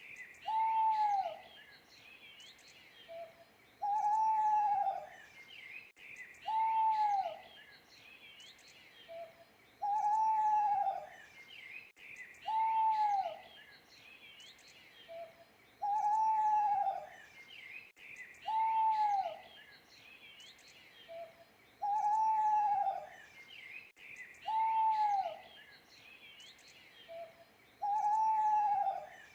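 An owl hooting in an evenly repeating series, each hoot a short note that rises then falls in pitch, with a faint short note between some of them. Small birds chirp steadily behind it.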